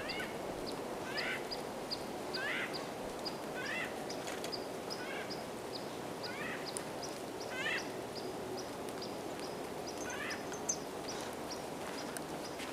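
Birds calling: one call that sweeps downward, repeated about once every 1.3 seconds, over a quicker series of short high chips from another bird. A steady low rush runs underneath.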